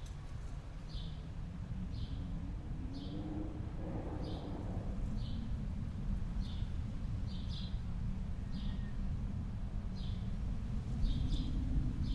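Outdoor winter ambience: a steady low wind rumble, with a small bird giving short, high chirps over and over, about one or two a second.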